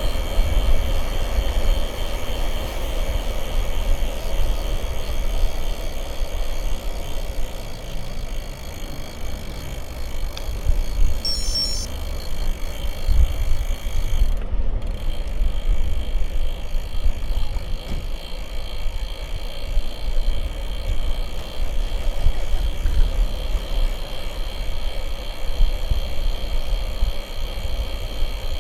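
Wind rumbling on the microphone of a camera on a moving bicycle, over the steady noise of its tyres rolling.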